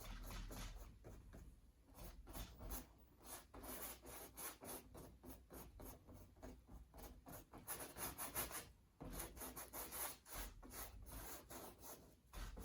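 Fan brush with thinned white acrylic paint stroked repeatedly down a painting: the bristles make faint, quick rubbing strokes one after another.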